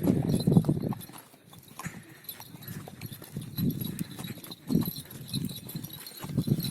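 Horse's hooves clopping at a walk on a trail, the footfalls coming in uneven clusters with a short lull early on.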